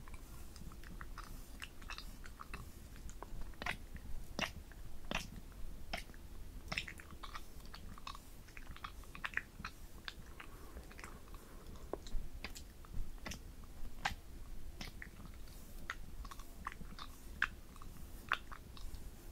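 Close-miked ASMR mouth sounds: irregular wet clicks and smacks, some in quick clusters.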